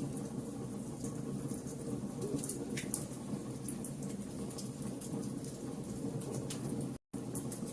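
Wood fire burning, with frequent sharp crackles and pops over a steady low rumble of flames. The sound cuts out completely for an instant near the end.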